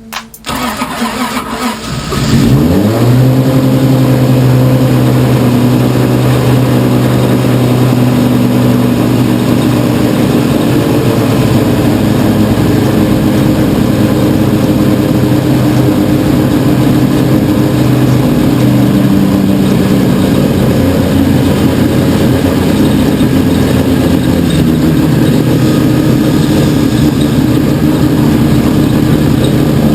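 Toyota 1JZ-GTE straight-six, rebuilt with bigger cams and a big turbo, cranking and catching about two seconds in, then running at a steady idle.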